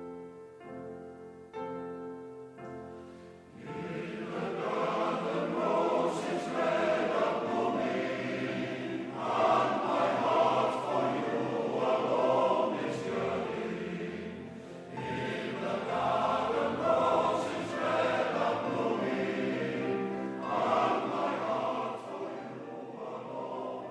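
Recorded choir singing a Welsh folk song: soft piano notes, then the voices come in about three and a half seconds in and sing in swelling phrases.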